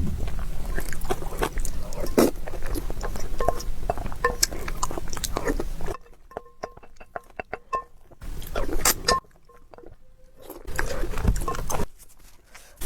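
Close-miked eating: chewing with wet mouth clicks and smacks, in a run of quick irregular clicks. The background drops out for stretches between bites.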